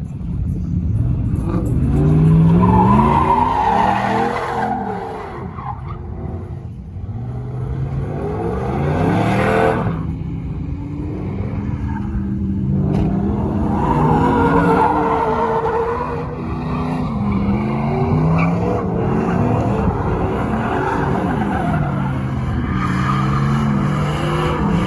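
Truck engines revving up and dropping back again and again, loud and continuous.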